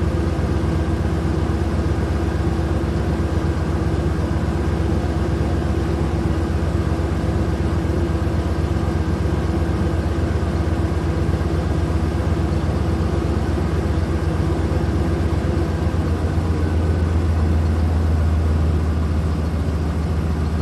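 Vehicle engine running steadily: a low, fast, even rumble with a steady whine above it. It grows louder and deeper from about sixteen seconds in.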